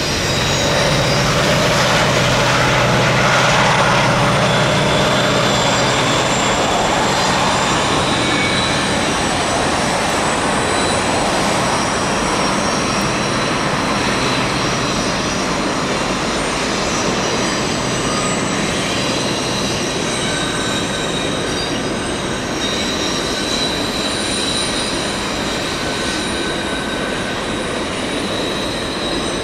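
A Canadian Pacific SD70ACU mid-train distributed-power diesel locomotive passes, its engine hum loudest about three seconds in and fading by about seven seconds. Freight cars then roll by with a steady high-pitched wheel squeal.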